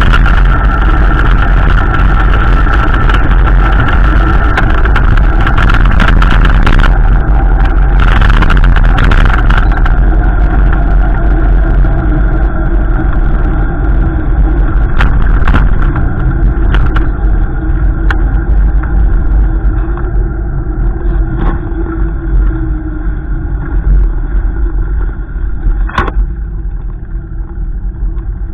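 A motor vehicle running, a steady low rumble with engine tones, getting somewhat quieter in the second half.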